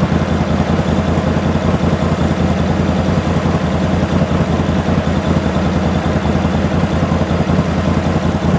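Off-road vehicle engine idling steadily at a constant low pitch, with no revving.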